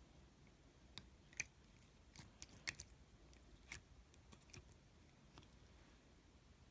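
Slime being worked by hand, giving faint, irregular little clicks and pops.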